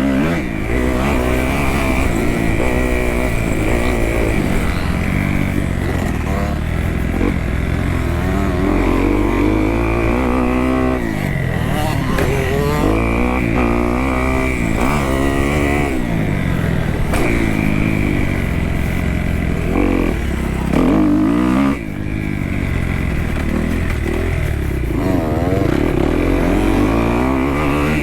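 Kawasaki KX250F four-stroke single-cylinder dirt bike engine being ridden hard, its pitch climbing and falling over and over as the throttle is opened and shut through the gears.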